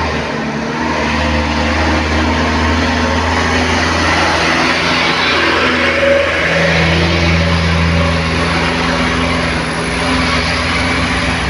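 Heavy truck engine running steadily, with tyre and road noise.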